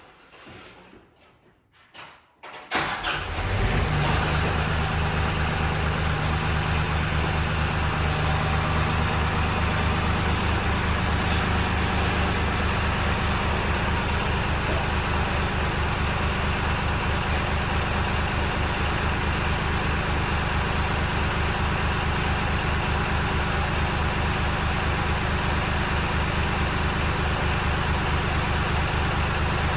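Engine of a loader carrying pallet forks and a grapple, running steadily with a low, even hum. It comes in abruptly about three seconds in, after a near-silent start.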